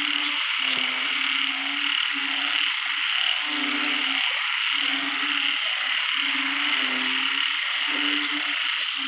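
A chorus of frogs calling in the wet season: low, drawn-out croaks repeat about once a second from several animals, overlapping one another. A steady high hiss runs beneath them.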